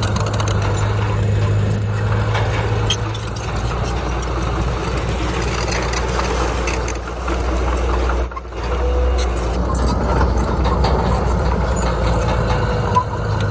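Heavy earthmoving machinery's diesel engine running steadily with a deep low rumble, dipping briefly a little past the middle.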